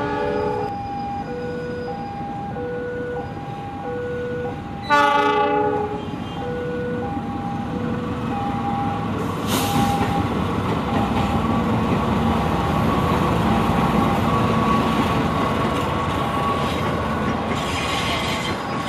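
A train horn blasts briefly, then again more loudly about five seconds in, before a train passes with a rising rumble and clatter of wheels on rails. A repeating two-tone warning beep sounds behind it through the first part.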